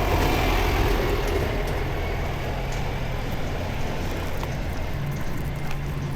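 Steady low rumble of a motor-vehicle engine running close by, with street noise, a little louder in the first second or so.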